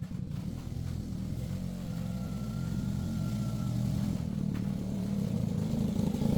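Engine running steadily, a little louder near the end.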